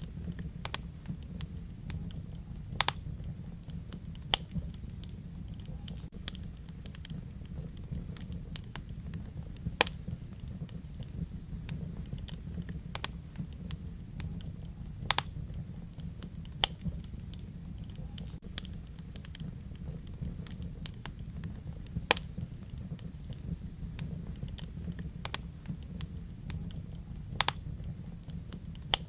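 Wood fire crackling in a fireplace: irregular small snaps and pops over low, steady noise, with a few much louder pops spaced several seconds apart.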